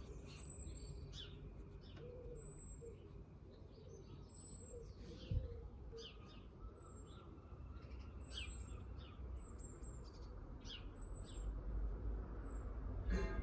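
Birds chirping: short high chirps about once a second, with other brief calls between them over a faint low hum. There is a brief knock about five seconds in.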